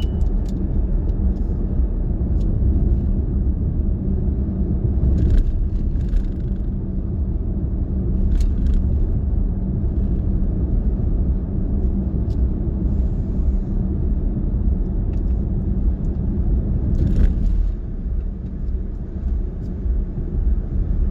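Steady low rumble of a car's road and engine noise heard from inside the cabin while cruising, with a faint even hum and a few faint ticks.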